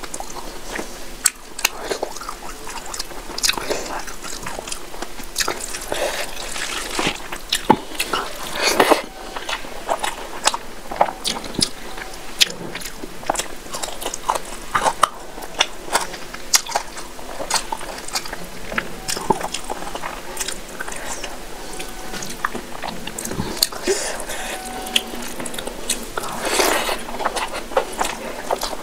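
Close-miked chewing and wet mouth smacks of someone eating rice and fish curry by hand, with frequent irregular sharp clicks.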